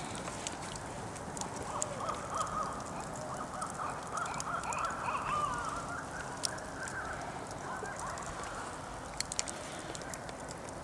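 Barred owls caterwauling: a run of overlapping, wavering calls that starts about two seconds in and fades out after several seconds. Sharp crackles from a campfire are heard throughout, with a few louder pops near the end.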